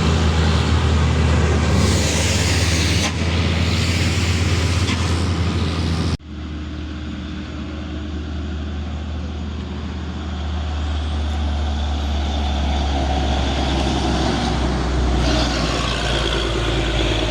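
Heavy truck engine running steadily, with a hiss of air about two seconds in. The sound cuts off abruptly about six seconds in and gives way to another steady stretch of engine noise.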